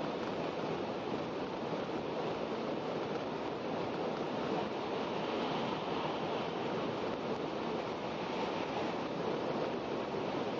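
Steady rushing running noise inside the passenger cabin of an N700-series Shinkansen travelling at speed.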